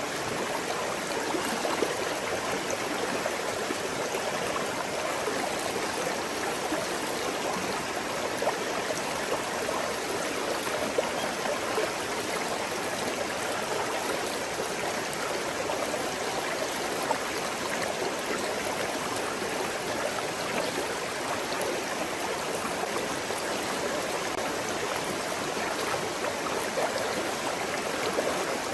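Small stream flowing over stones: a steady burble of running water.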